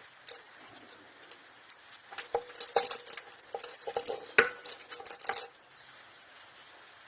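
Metal tools and engine parts clinking and clattering against each other, a run of sharp knocks with a short metallic ring from about two seconds in until about five and a half seconds in.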